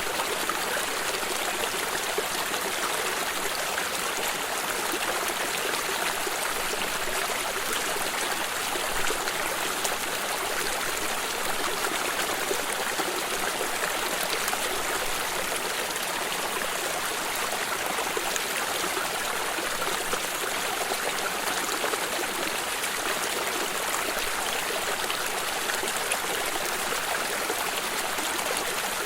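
Stream water running and trickling over stones, a steady rushing with fine splashing flicker.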